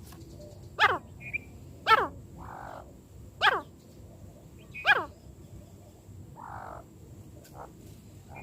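Francolin (teetar) calling: a series of four loud notes, each sweeping sharply down in pitch, spaced about a second to a second and a half apart, with a fainter one near the end.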